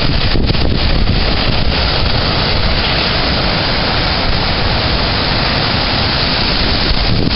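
Strong storm wind buffeting the microphone over the steady rush of heavy surf.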